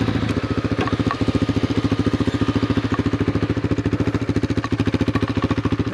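Single-cylinder motorcycle engine running at low, steady revs, with a quick, even pulse of about a dozen beats a second.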